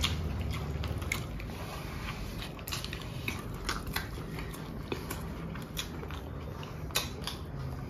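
A person chewing and biting food, with soft irregular clicks and small crunches from the mouth.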